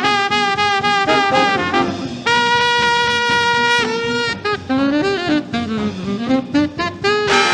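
Fast swing jazz, an instrumental horn passage: quick runs of short notes, then one long held note about two seconds in, followed by a lower line sliding down and back up.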